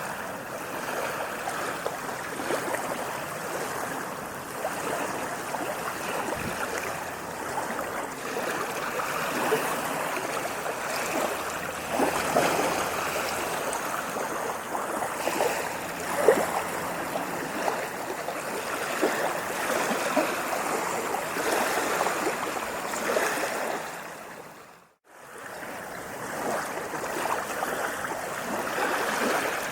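Moving water splashing and washing steadily, full of small irregular splashes. It fades out briefly and comes back about five seconds before the end.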